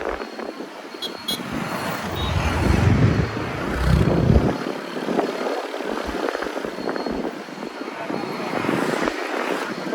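Road and wind noise on a moving scooter with traffic around it. A deep rumble swells between about two and four and a half seconds in, then falls back to steady road noise.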